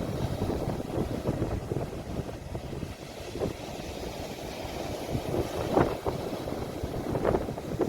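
Ocean waves washing against the shore in a low, steady rush, with a few short surges as waves break, and wind rumbling on the phone's microphone.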